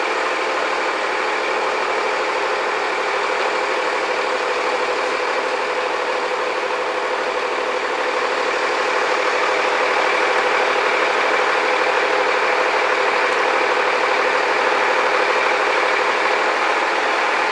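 An engine running steadily, typical of heavy construction machinery on a building site. It grows slightly louder about halfway through.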